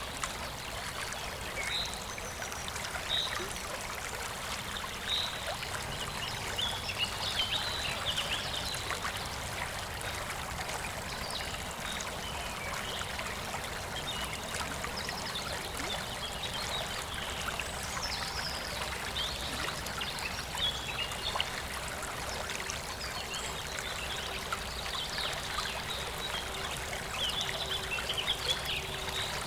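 Clear stream babbling steadily, with many small, bright trickles and splashes scattered throughout.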